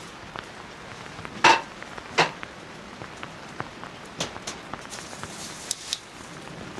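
Steady rain pattering on the tent, with scattered small ticks of drops. About a second and a half in come two loud, ringing clanks of metal cookware, a moment apart, then a few lighter clinks near the end.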